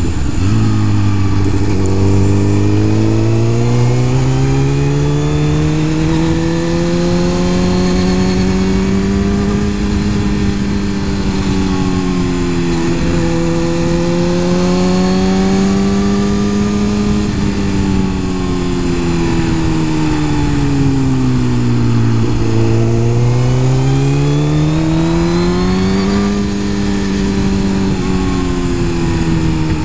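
Suzuki GSX-R 1000 inline-four engine under way, its pitch climbing and falling smoothly several times as the rider opens and rolls off the throttle, with a sharper drop a little past two-thirds of the way through. A steady rush of wind runs underneath.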